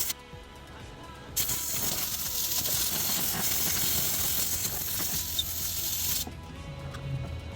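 A steady hiss that cuts in sharply about a second and a half in and stops just as suddenly about five seconds later, over background music.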